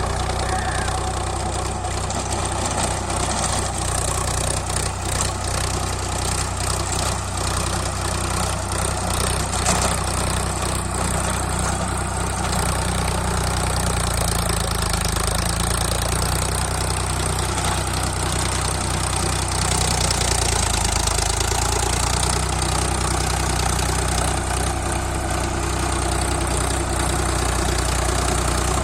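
Sonalika Sikander diesel tractor engine running steadily while working a rotavator.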